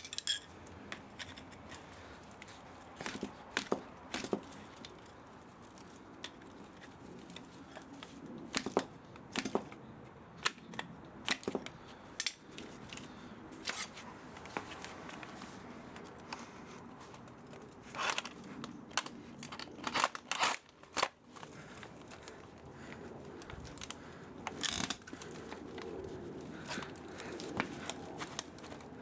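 Hand tools working on an old electric spa motor being stripped for scrap metal: irregular sharp clicks, snips and short scraping noises, some in quick clusters.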